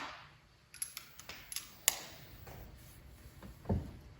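Light clicks and taps of small parts being handled, with a dull knock near the end.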